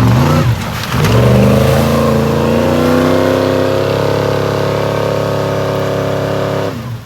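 Truck engine revved hard as it drives through a deep mud hole: a couple of quick rising revs, then held at high revs for about six seconds, pitch creeping slowly upward, before it drops off abruptly near the end.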